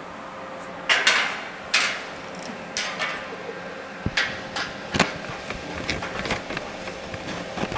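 Hammer striking metal in a series of irregular sharp knocks, about one or two a second, some much louder than others, over a faint steady hum.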